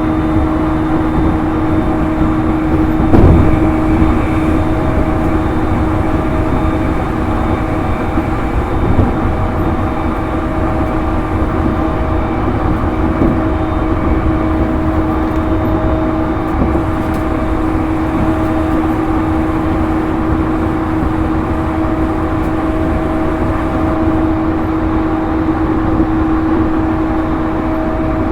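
JR East E231-series electric train running at a steady speed, heard inside motor car MoHa E231-1101: a steady whine from the traction motors and gearing that holds one pitch over the rumble of wheels on rail. A louder knock about three seconds in.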